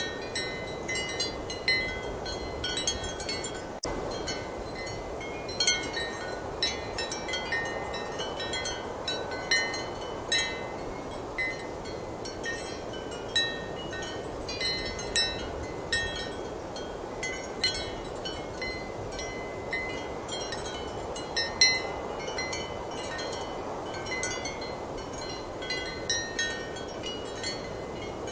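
Ceramic wind chimes clinking irregularly and often, several short high ringing tones at a time, over a steady rush of strong wind.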